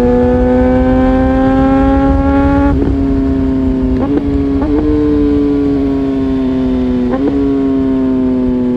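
Honda CBR600RR's inline-four engine running at high revs while riding, its pitch climbing slowly for about three seconds, then broken by brief dips a few times and slowly easing off. A low wind rumble on the microphone runs underneath.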